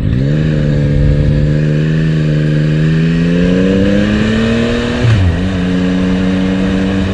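Motorcycle engine accelerating. The revs climb steadily for about five seconds, then drop at a gear change and hold steady.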